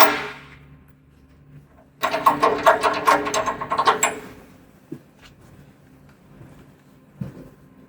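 Rapid mechanical clicking from a tool fastening hardware during sawmill bed assembly, lasting about two seconds, then a single knock.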